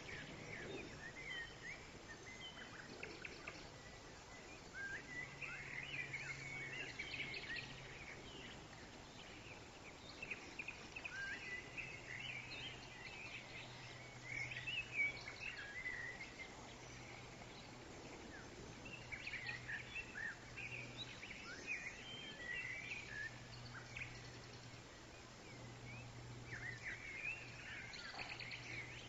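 Small birds chirping and twittering in scattered bursts, over a faint steady low hum and outdoor background noise.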